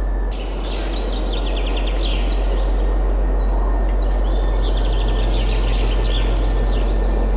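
Wind blowing steadily with a deep low rumble, and small birds singing rapid trills and chirps over it, first about half a second in and again past the middle.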